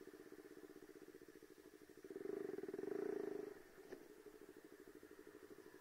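Single-cylinder KTM RC sport bike engine running at low speed through its fitted aftermarket exhaust, a bass-heavy note. It swells louder for about a second and a half, starting about two seconds in, then settles back.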